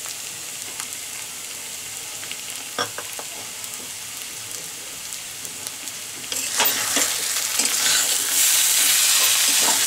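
Spice-coated boiled arbi (taro root) frying in oil in a kadhai. A low, steady sizzle with an occasional light tap runs for about six seconds, then a spatula starts stirring and the sizzling and scraping grow suddenly louder.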